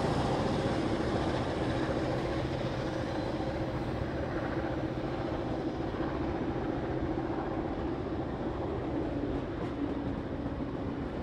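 Diesel-hauled heritage passenger train passing: a steady rumble of the carriages rolling by, with a faint hum, slowly easing off.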